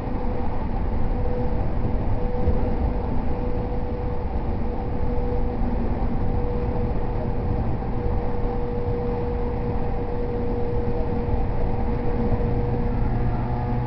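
Interior running sound of a JR East E231-0 series commuter electric train under way: a steady low rumble of wheels on the rails, with a steady hum held above it.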